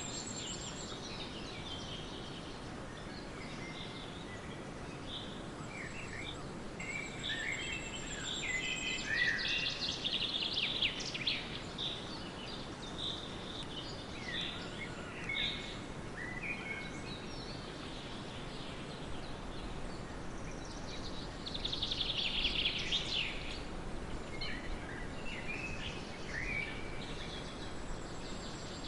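Several birds singing and chirping, short calls and trills coming at irregular moments, with a busier flurry of song about a third of the way in and again near the end, over a steady background hiss.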